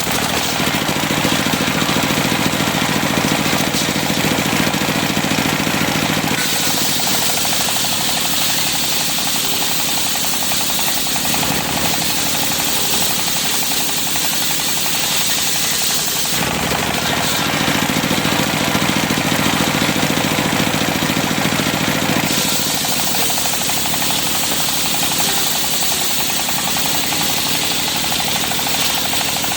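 Serkel circular sawmill running and sawing cempaka timber, a loud steady machine sound with a fast pulse. Its tone changes every five or six seconds.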